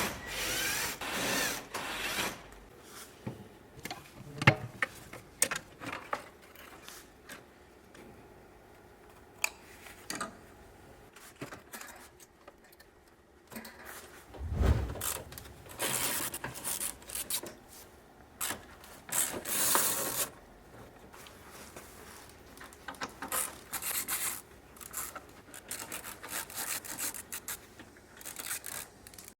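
Hand work on a van's parts: scattered sharp clicks and knocks, a dull thump about fifteen seconds in, and several short stretches of rubbing and scraping, as of tools, plastic and hoses being handled.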